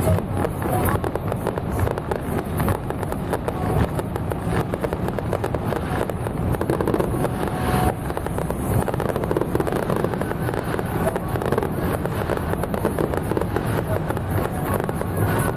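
Firecrackers crackling in a dense, continuous rattle of rapid pops.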